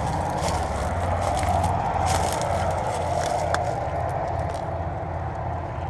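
Steady road-traffic noise with a low engine drone, overlaid by crunching footsteps.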